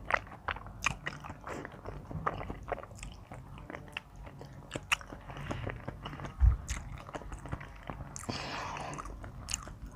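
Close-miked eating: a person chewing and biting into spicy pounded seafood salad with egg-bearing squid, with many wet smacks and crisp crunches. There is one louder low thump about six and a half seconds in.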